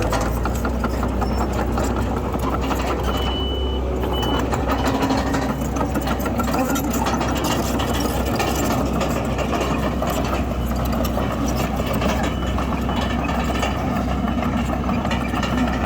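Heavy diesel earthmoving machinery running steadily under a dense rattle, with a reversing alarm giving two short high beeps about three seconds in.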